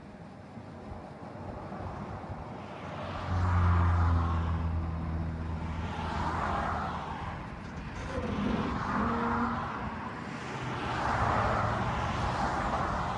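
Ford F350's 6.7-litre diesel engine running at low speed while the truck is backed slowly under a slide-in camper, its note growing louder about three seconds in. A rushing noise swells and fades several times over it.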